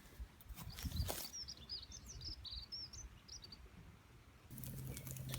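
Small songbird chirping: a quick run of short, high chirps lasting about two seconds. A few sharp knocks come just before, and a low steady hum starts near the end.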